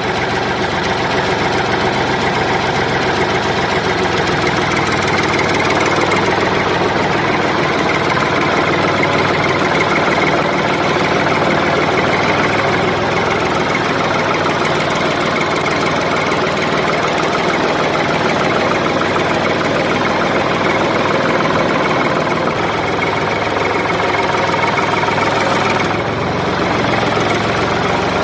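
An engine running steadily at idle with a knocking rumble, shifting slightly in tone about six seconds in and again a couple of seconds before the end.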